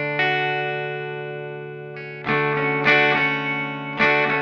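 Clean electric guitar chords through an Old Blood Noise Endeavors Sunlight Stereo reverb pedal set to a short decay, giving almost a room sound. A chord rings and slowly fades, then new chords are strummed about two seconds in and again near three and four seconds.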